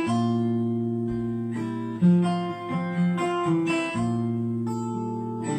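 Acoustic guitar playing chords between sung lines of a song, each chord left ringing and a new one struck about every two seconds.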